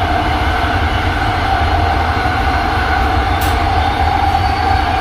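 AirTrain JFK car, a linear-induction-driven automated people mover, running at speed on its elevated guideway, heard from inside the car: a steady low rumble under a steady high whine, with one short tick about three and a half seconds in.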